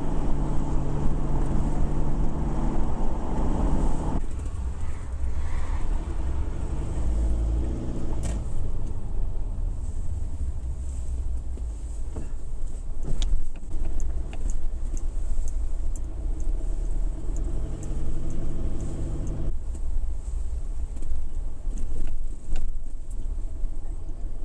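A motor vehicle driving, heard as a steady low rumble with an engine hum that changes pitch abruptly about four seconds in and again near the end, and faint scattered ticks over it.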